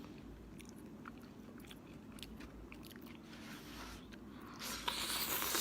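Close-up chewing and small mouth clicks of someone eating hot tofu, with a louder hiss near the end.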